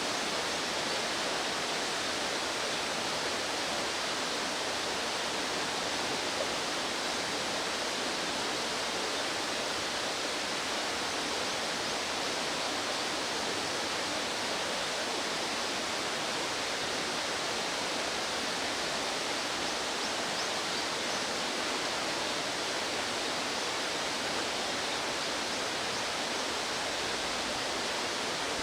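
Rushing water of a mountain stream, a steady even roar with no change in level.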